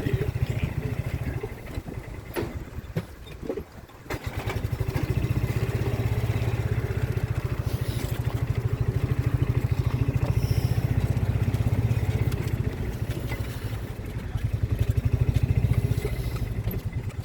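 A vehicle's engine running with a low, rapid pulse, dipping briefly about four seconds in and then picking up again.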